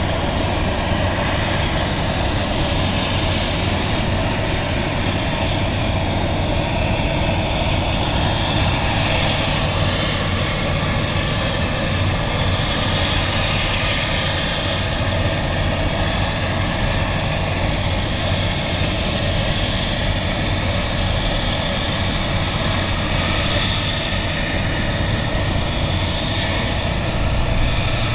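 Jet airliner engines running, a steady noise with slow swells in its hiss and no pauses.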